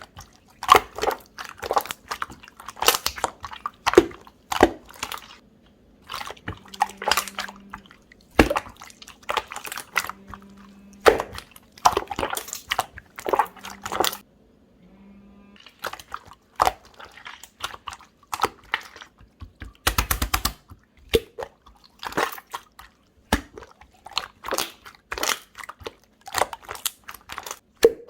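Jelly-textured slime being squeezed, folded and poked by hand, giving off irregular crisp clicks and pops of trapped air, with a quick run of pops about twenty seconds in.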